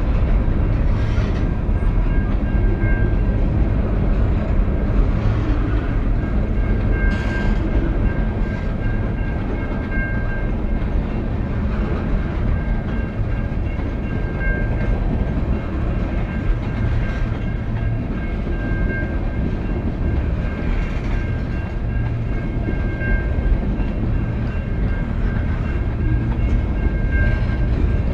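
Freight train cars (covered hoppers, tank cars and boxcars) rolling past at a grade crossing: a steady rumble of steel wheels on rail with clacks from the wheels striking rail joints. A faint high ringing tone recurs throughout.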